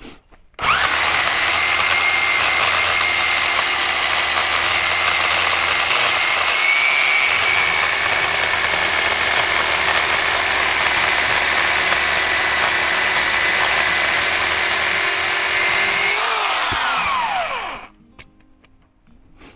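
Corded electric pole chainsaw running flat out as it cuts through an oak limb: a steady high whine that starts abruptly just after the start, then winds down in falling pitch when the trigger is released about 16 seconds in.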